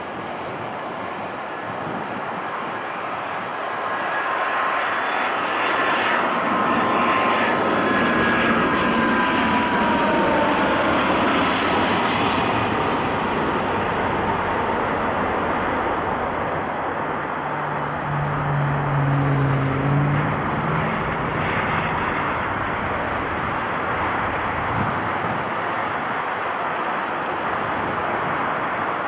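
Jet airliner passing close by: a rushing engine noise swells over several seconds, with a thin engine whine that falls in pitch as the aircraft goes past, then a steady rush as it moves away.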